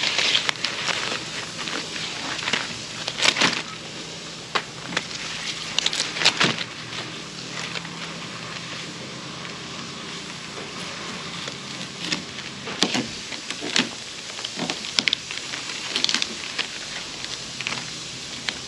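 Green milo (grain sorghum) stalk being split and peeled open by hand, with irregular crackles and snaps of the fibrous stalk and leaf sheaths as the hidden seed head is searched for.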